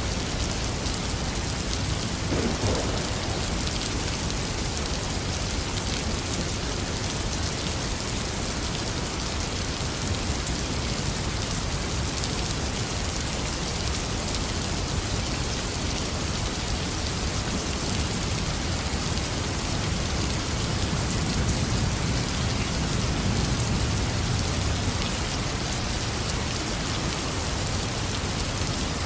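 Heavy rain falling steadily, with a low rumble of thunder swelling and fading about two-thirds of the way through.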